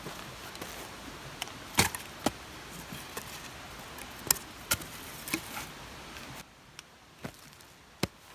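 Irregular sharp knocks and clicks, about half a dozen, over a steady rushing noise that drops away abruptly about six seconds in.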